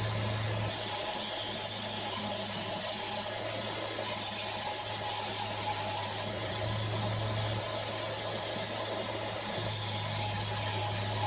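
Electric grinder running steadily with a steel knife blade held against it, grinding forge scale off the blade's flats.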